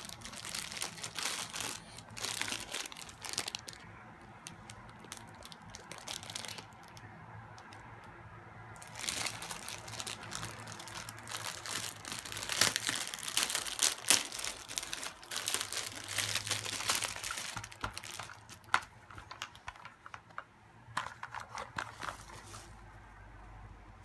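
Packaging being opened by hand: crinkling, rustling and tearing with sharp clicks, coming in spells with quieter pauses between.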